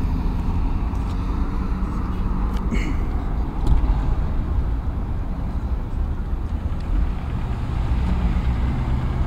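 Motor vehicle engines running with a steady low rumble, with road traffic around; a steady engine hum becomes clearer near the end.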